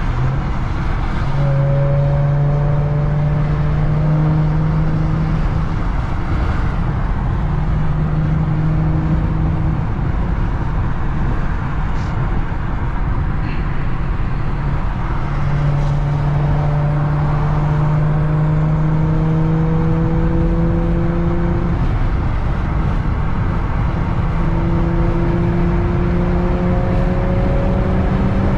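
2017 Audi SQ5's V6 through AWE non-resonated downpipes and Touring cat-back exhaust, heard from inside the cabin with the windows partly down. In fifth gear at highway speed, the exhaust drone swells and fades and rises slowly in pitch during several long pulls, over steady road and wind noise.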